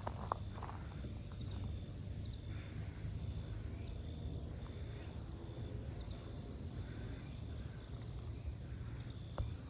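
Crickets trilling steadily, one high continuous trill and another pulsing, over a low steady rumble. A few light footstep clicks come right at the start.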